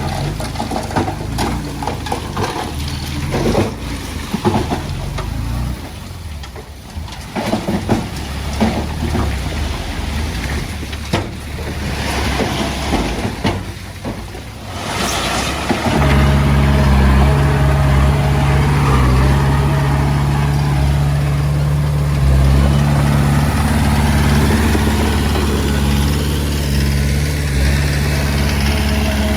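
Diesel engine of heavy earthmoving machinery running under irregular clanking and knocking of stone and steel. A brief hiss comes about halfway through. Then the engine drones steadily and louder to the end.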